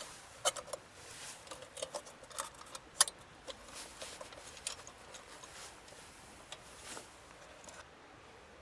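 Small objects being handled at close range: an irregular run of light clicks, taps and rattles, sharpest about half a second and three seconds in, that stops abruptly near the end.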